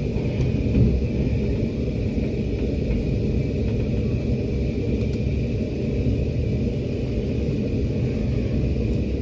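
Steady low rumble of a moving Amtrak passenger train, heard from inside the coach, with a faint steady high tone above it.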